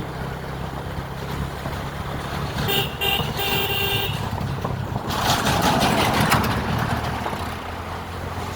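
Motorcycle engine running steadily while riding. A vehicle horn honks for about a second, a few seconds in, followed by a louder rush of noise for a couple of seconds.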